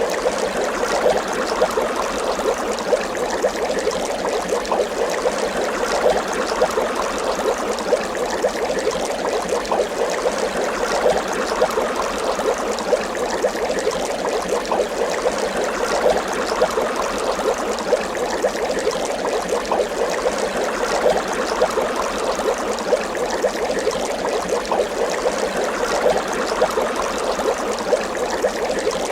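Water bubbling steadily: a continuous stream of many small bubbles popping and gurgling at an even pace.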